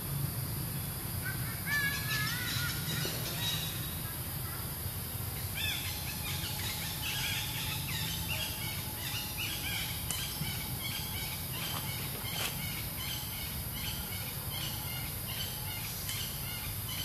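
Birds calling: a few wavering calls near the start, then a long run of short, evenly repeated calls, about two a second, over a steady low hum.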